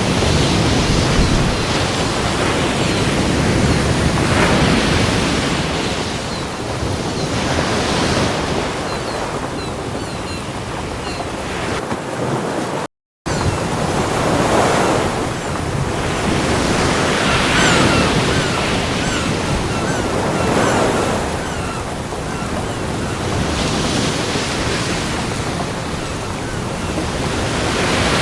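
Ocean surf: waves breaking on a beach one after another, the wash swelling and easing every few seconds. The sound cuts out for a split second about halfway through.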